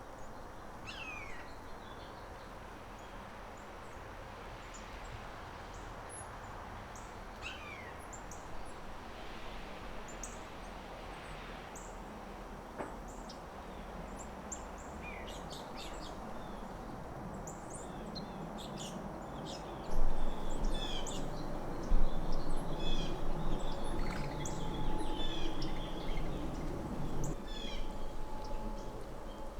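Wild birds chirping and calling outdoors in snow: scattered short chirps and a few falling whistled notes, busier in the second half, over a steady background hiss. A louder low rumble comes in about two-thirds of the way through and lasts several seconds.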